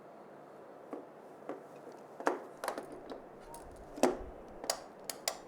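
A series of irregular light knocks and clicks, about nine in all, starting about a second in, with the loudest knock a little past the middle.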